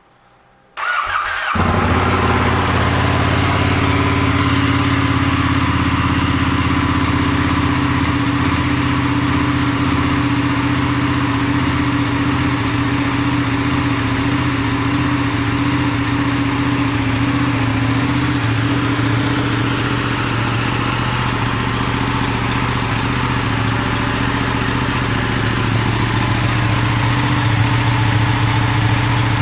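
Ducati Panigale 959's 955 cc Superquadro V-twin started about a second in, the starter turning briefly before the engine catches, then idling steadily.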